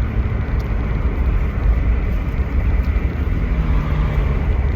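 A steady low rumble, such as a running vehicle makes.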